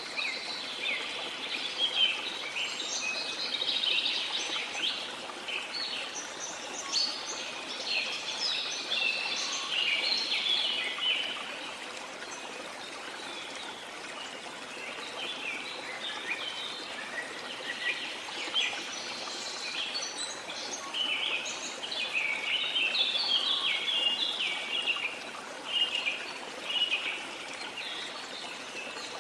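Birds chirping and calling in quick, overlapping phrases over the steady rush of falling water, with a lull in the birdsong around the middle.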